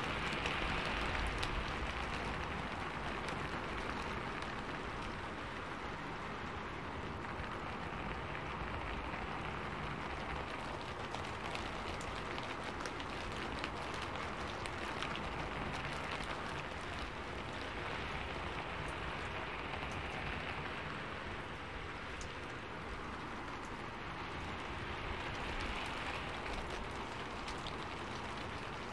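Steady rain falling, a dense patter of drops hitting surfaces and leaves, with no let-up.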